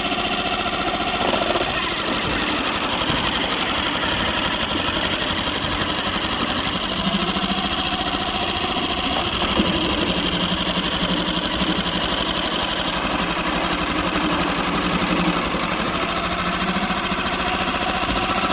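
Aiqidi 8 hp outboard motor running steadily under way.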